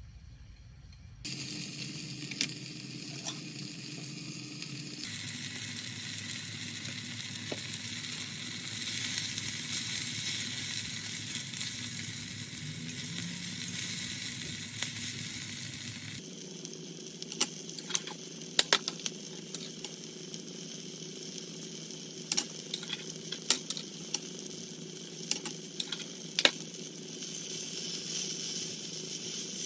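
Food sizzling in a frying pan, in several short edited takes, with a scatter of sharp clicks and taps of a utensil against the pan in the second half.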